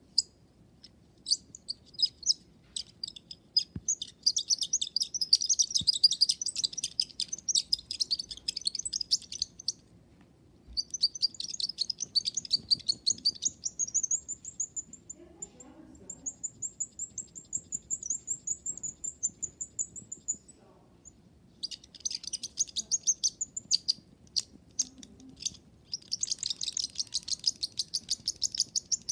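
A small bird chirping and trilling in fast runs of high notes, pausing briefly twice. In the middle it holds one long, even, high trill.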